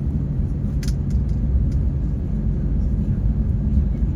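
Steady low rumble inside a jet airliner's cabin, with a single sharp click a little under a second in.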